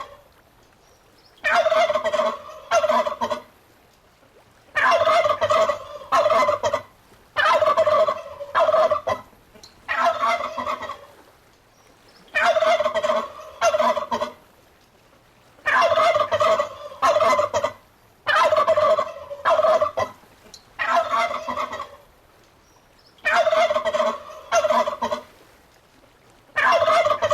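Domestic turkey tom gobbling over and over, about ten gobbles, one every two to three seconds, each a loud call of a second or two.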